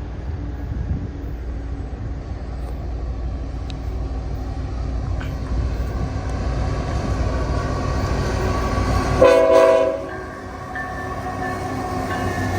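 Freight train passing with a steady low rumble, then about nine seconds in a single short blast of a locomotive's Nathan K5HL five-chime air horn, given as a horn salute. The rumble drops off right after the horn.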